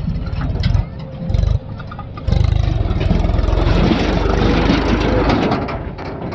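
Heavy diesel engine revving: two short surges in the first two seconds, then a long hard rev from about two seconds in that eases off near the end.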